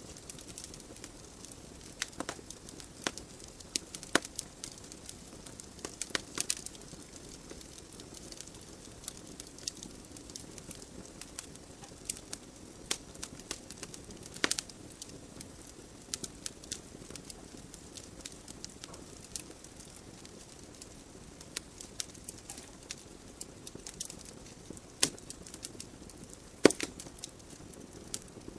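Wood logs burning in a fireplace, crackling with frequent irregular sharp pops over a soft, steady hiss of flames; one pop a couple of seconds before the end is the loudest.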